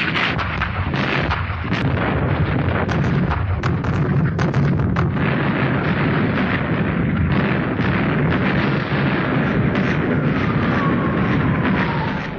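Battle sound of artillery and gunfire: a dense crackle of shots and blasts over a continuous low rumble. Near the end a whistle falls in pitch.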